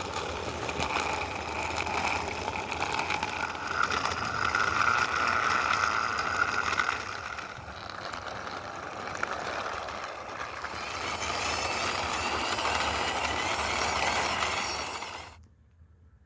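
Toy cars pushed along by hand, their small wheels rolling on a hard surface: a continuous rolling rumble and rattle that stops suddenly near the end.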